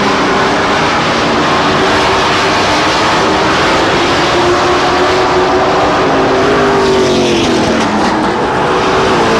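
Race truck engines running at speed around a short oval track. They hold a loud, steady drone, with the pitch dipping and rising as trucks pass near the end.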